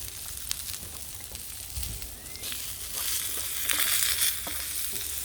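Chopped raw onion with a splash of vegetable stock sizzling and frying in a pan over a campfire, growing louder about halfway through, with a few light clicks.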